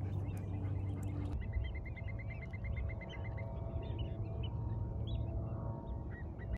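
Wild birds calling: a quick run of short, evenly spaced notes, about seven a second, for around two seconds, among scattered short chirps, over a steady low rumble.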